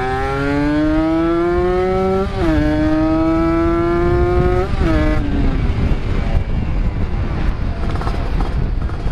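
Two-stroke Yamaha RX-King 135cc single with a Cobra-model exhaust accelerating through the gears: the engine note rises, drops at a gear change about two and a half seconds in, rises again and drops at a second shift near five seconds. After that it backs off, leaving a rough rumble of engine, wind and road.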